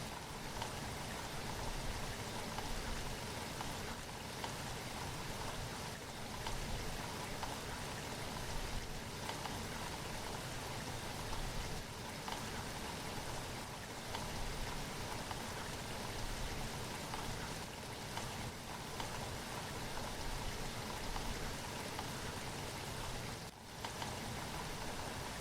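Steady rain falling, an even hiss of drops, with a brief dip in level about 23 seconds in.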